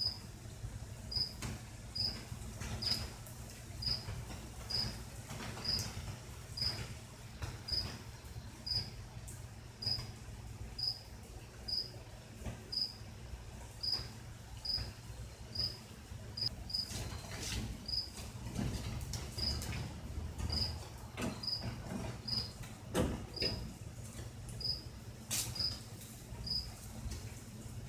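A cricket chirping steadily, a short high chirp about once a second, over a low steady hum with scattered faint clicks.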